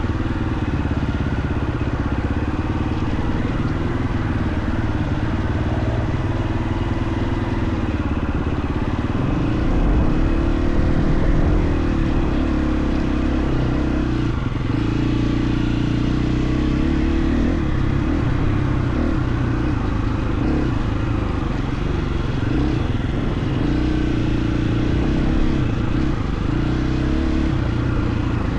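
Single-cylinder four-stroke engine of a KTM 350 XC-F dirt bike running as it is ridden, its pitch rising and falling with the throttle and climbing louder about ten seconds in.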